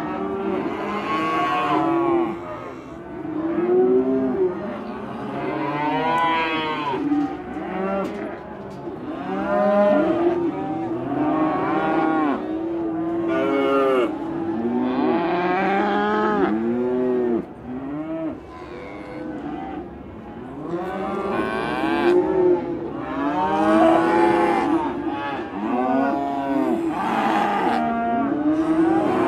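Several cows mooing almost without a break, their calls overlapping one after another at different pitches.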